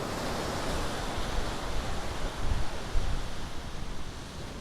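Ocean surf breaking and washing on a beach, with wind buffeting the microphone in low gusts about halfway through.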